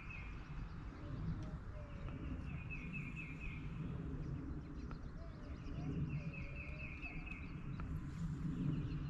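A songbird singing a rapid trill of short, evenly repeated notes, three trills about three seconds apart, over a steady low rumble of outdoor noise.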